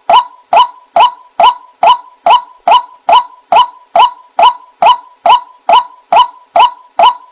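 White-breasted waterhen calling, repeating one short note at an even pace of a little over two per second.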